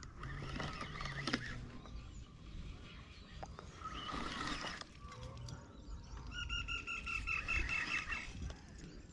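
A bird calling: a quick run of about eight short, even, high notes, some four a second, a little past the middle, with fainter calls before it.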